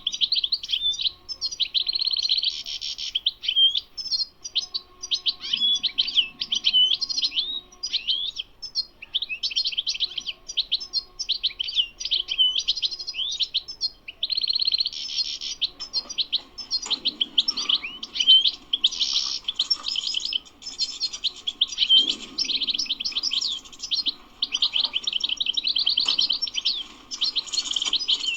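European goldfinch singing a long, unbroken twittering song of quick high chirps and rapid trills.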